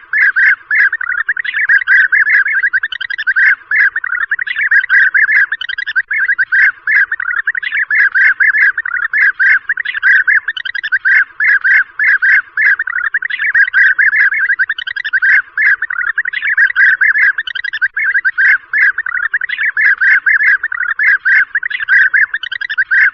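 European bee-eaters calling: an unbroken stream of short, overlapping calls, several a second, as from a flock.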